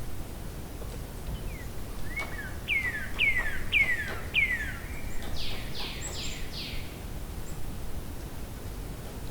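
A songbird singing one phrase: about four quick notes sliding down in pitch, followed at once by four higher, harsher falling notes, over a steady low background rumble.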